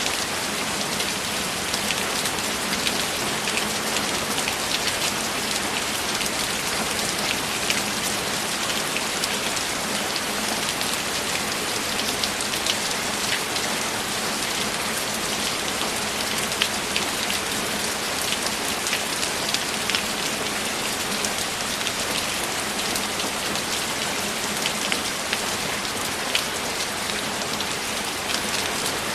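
Steady rain, an even hiss with a dense patter of separate drops ticking through it.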